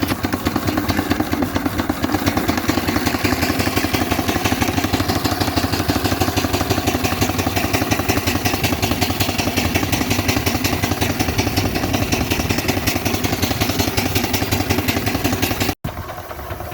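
Engine running steadily with a fast, even beat of mechanical strokes. It cuts off abruptly about a second before the end.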